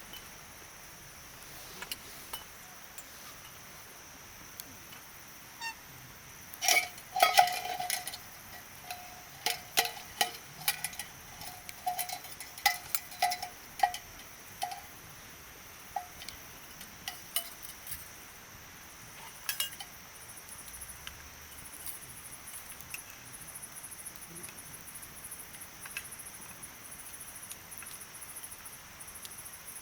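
Campfire crackling and popping: a dense cluster of sharp pops, some with a short ringing note, gives way to sparser pops and then fades out.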